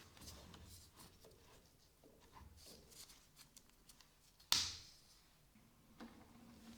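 Faint handling noises at a workbench: soft rustling and light scraping with small ticks, and one sharp click about four and a half seconds in.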